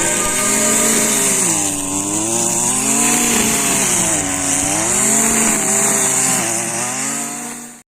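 A small engine running loud and steady, its pitch sagging and recovering about every one and a half to two seconds as if under rhythmic load, with a steady high hiss over it. It cuts off abruptly near the end.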